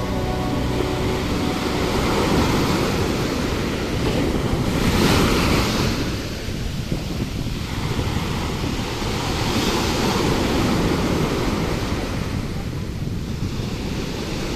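Sea waves washing onto the shore, with wind rumbling on the microphone; the wash swells about five seconds in and again near ten seconds.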